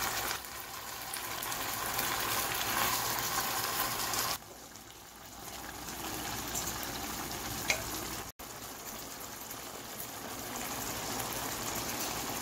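Spicy gochujang duck stir-fry sizzling in its sauce in a frying pan. The sound drops abruptly about four seconds in and cuts out for an instant just after eight seconds.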